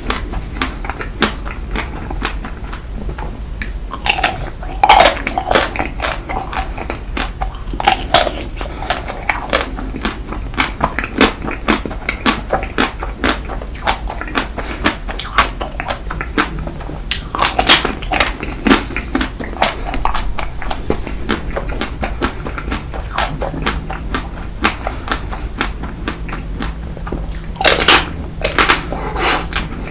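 Close-up eating sounds: chewing and biting food, with many small wet clicks and a few louder bursts of crunching and mouth noise about 4, 8, 18 and 28 seconds in.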